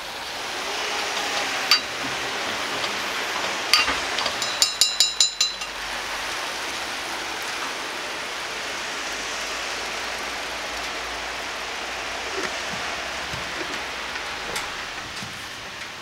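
Meat and vegetables sizzling steadily in a small cast-iron pot as they are stirred with a metal spoon. A couple of single clinks come early, then a quick run of five or six ringing clinks of the spoon against the pot about four to five seconds in.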